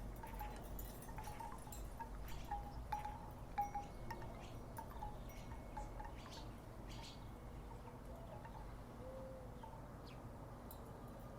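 Wooden wind chimes knocking together in the breeze: short hollow clonks, each with a brief tone. They come thick and fast at first and thin out after about six seconds, over a faint low rumble of wind.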